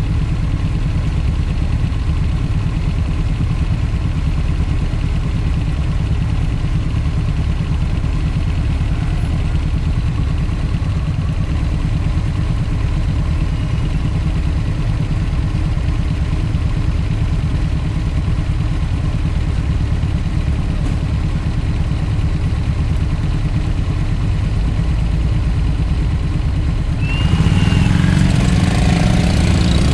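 Motorcycle engine running steadily while riding; it grows louder near the end.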